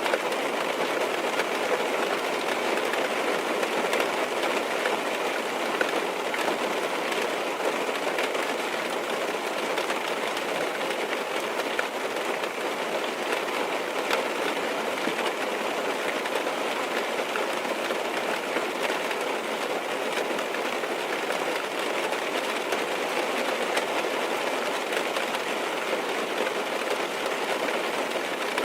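Steady rain tapping on a car's roof and windows, heard from inside the car as an even hiss with faint scattered drop ticks.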